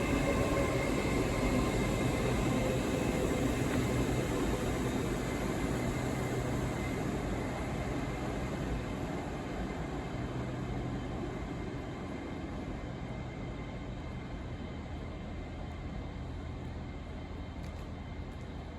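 A train running with a steady engine hum and rumble, fading slowly and evenly as it moves away.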